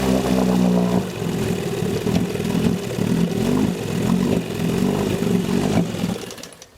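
1972 Johnson 20 hp two-stroke twin outboard motor running on its first start: steady for about a second, then its note drops and it runs unevenly, surging up and down about twice a second, before dying out near the end.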